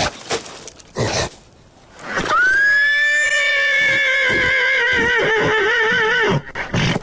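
A cartoon character's long, high vocal cry that jumps up at the start, holds, then wavers more and more and sags slightly before it breaks off, after a short noisy burst about a second in.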